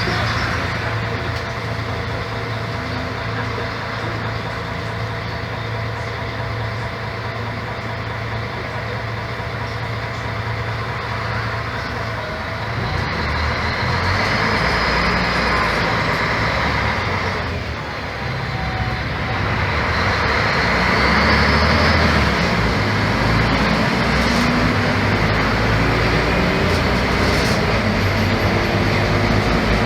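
Mercedes-Benz O-500MA Bluetec 5 bus diesel engine running, driven through a Voith automatic gearbox. The engine note shifts about halfway through, dips briefly, then grows louder for the last third.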